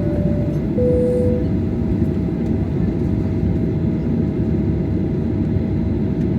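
Steady low rumble inside the cabin of a Boeing 737-800, from its engines and air conditioning. Near the start a two-tone high-low cabin chime sounds once.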